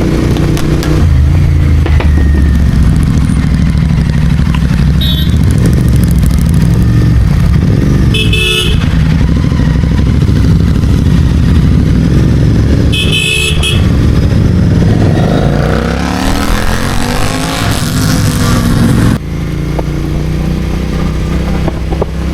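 Royal Enfield Continental GT650 parallel-twin with an aftermarket Red Rooster exhaust running under way, its note rising and falling with the throttle. Two short horn honks come a few seconds apart in the middle. Later the revs climb and fall, then the sound drops off abruptly.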